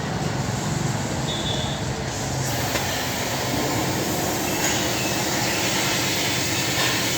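Steady mechanical running noise with a low hum, joined by a hiss about two and a half seconds in.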